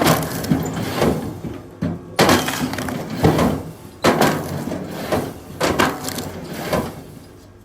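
Firewood being split, with sharp cracking wooden impacts. The strongest come about every two seconds, with smaller knocks and rattles between.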